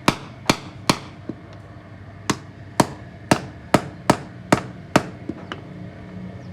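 Hammer blows in a workshop: three sharp strikes about half a second apart, a pause of over a second, then seven more at the same pace, ending with a couple of lighter taps.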